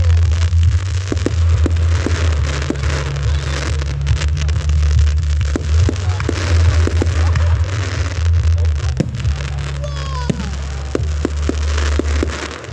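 Fireworks popping and crackling, many sharp cracks scattered irregularly through, over a steady low rumble; about ten seconds in a descending whistle-like tone falls away.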